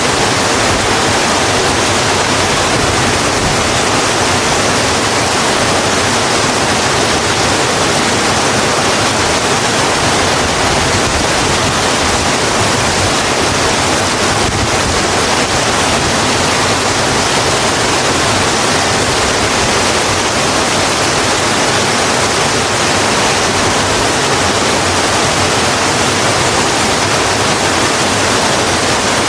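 Steady heavy rain, an even hiss with no breaks or single drops standing out.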